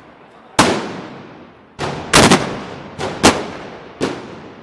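A ragged series of about seven loud black-powder bangs at irregular intervals, two of them in quick succession near the middle, each followed by a trailing echo. This is typical of blank festival gunpowder firing.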